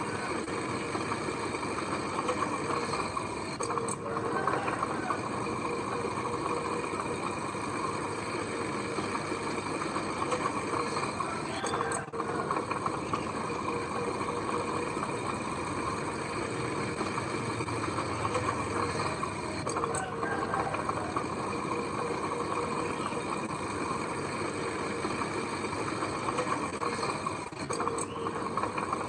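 Engine of heavy earthmoving machinery running steadily, a continuous mechanical drone with a few brief dips.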